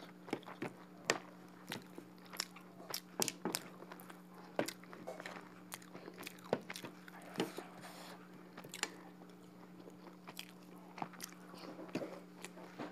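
Close-miked chewing of duck curry and rice: irregular mouth clicks and smacks, over a faint steady hum.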